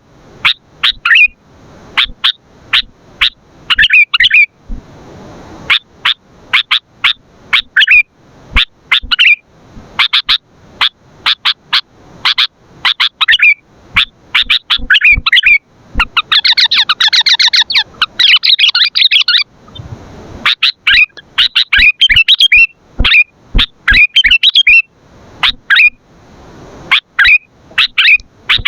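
Sooty-headed bulbul (kutilang) calling: a loud run of short, sharp chirps, with a rapid rattling chatter of about three seconds a little past halfway.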